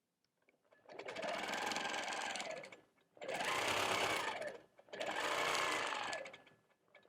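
Longarm quilting machine stitching in three short runs, each about two seconds, stopping briefly between runs as the quilter works her way around the sides of a block.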